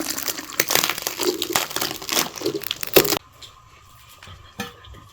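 Dense crinkling and crackling handling noise with many sharp clicks, cutting off abruptly about three seconds in; a few scattered clicks follow.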